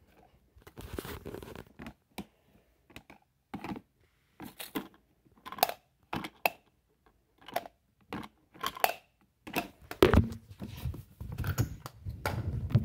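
Plastic toy garbage truck and bins being handled: irregular clicks, taps and clatters of plastic parts, getting busier and louder near the end.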